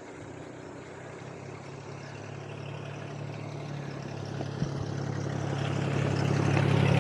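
A motor vehicle's engine running at a steady pitch, growing steadily louder over several seconds as it comes closer.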